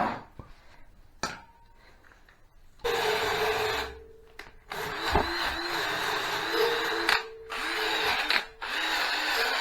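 Cordless power tool spinning a wire brush against a steel motorcycle frame, stripping it: quiet at first, then running from about three seconds in with a steady whine, stopping and restarting briefly a few times.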